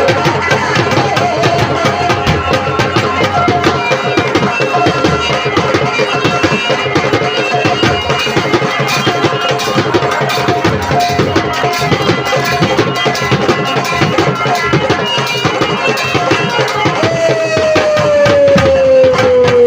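Instrumental interlude of live Indian folk stage music: hand drums of the dholak and tabla kind play a fast, steady rhythm under a held melody line. Over the last few seconds the melody slides slowly downward in pitch.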